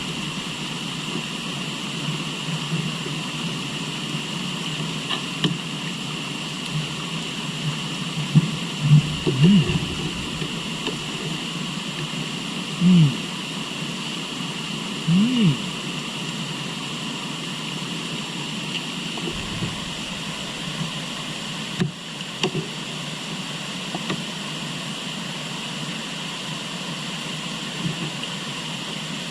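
River water flowing steadily, with a few short low-pitched sounds and light knocks over it.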